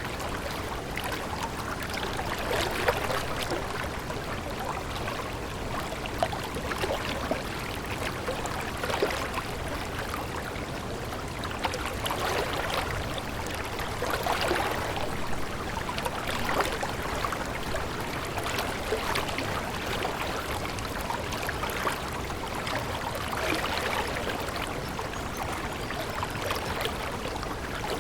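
Water running and splashing steadily, like a small stream over stones, full of small trickles and splashes that swell gently every few seconds.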